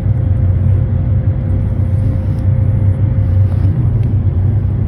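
Steady low rumble of a moving motor vehicle, with a faint steady whine that fades out about three and a half seconds in.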